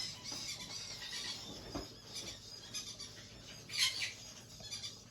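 Young pineapple conure making soft high-pitched chirps and chatter, with one louder squawk about four seconds in.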